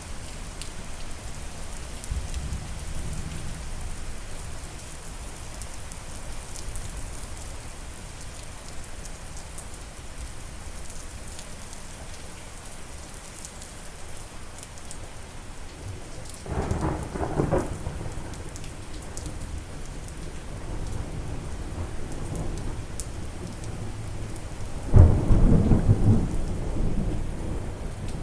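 Steady rain falling, with fine drip ticks, and thunder: a rumble about two-thirds of the way through, then a louder clap near the end that rolls on.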